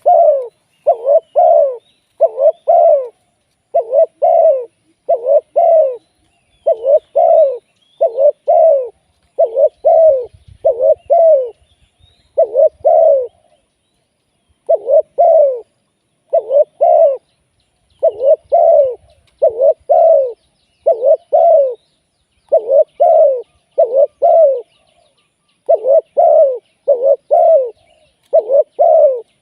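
Spotted dove cooing loudly: phrases of two or three low coos repeated over and over with short gaps, with a brief pause about halfway through.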